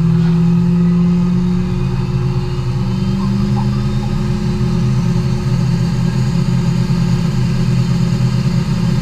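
Car engines idling steadily, the pitch stepping up slightly about two seconds in.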